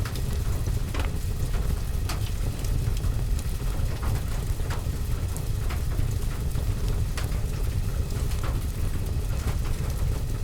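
Rain falling, heard from indoors as a steady low rumble with a patter over it. Scattered sharp crackles and pops from a wood fire run through it.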